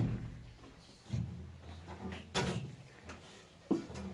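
A few sharp knocks and thuds about a second and a half apart, the strongest in the middle, over a faint low background.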